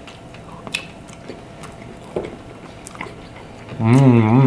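Eating at a table: chewing with a few faint clicks and ticks from shells or utensils, then near the end a short, loud hummed "mmm" with a wavering pitch, a sound of enjoying the food.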